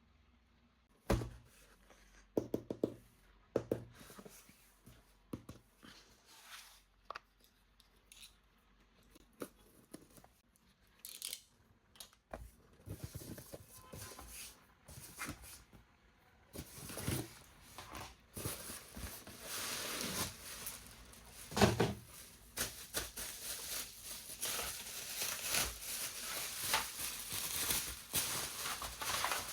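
Toy packaging being handled and opened: scattered knocks and taps at first, then from about midway a long run of tearing and crinkling of the wrapping.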